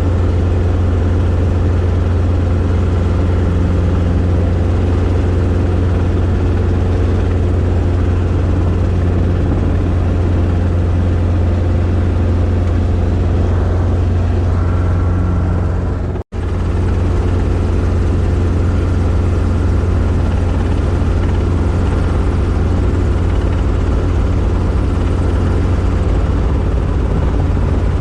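Robinson R22 helicopter in flight: the engine and rotor running with a steady, loud drone, with a split-second break about sixteen seconds in.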